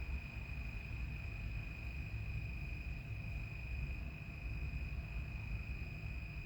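A steady high-pitched whine over a low rumble of background noise, unchanging throughout.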